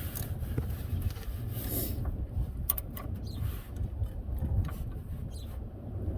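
A few scattered light clicks and taps of hand tools working on metal, over a steady low rumble.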